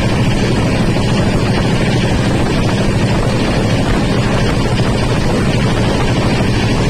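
Train running: a loud, steady rumble with a low hum, unchanging throughout.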